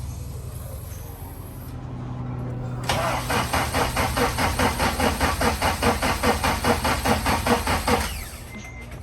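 Honda K24 engine in an Acura Integra cranking on the starter motor in an even pulsing of about five beats a second for about five seconds, then stopping without catching: a failed start attempt. A low steady hum comes before the cranking.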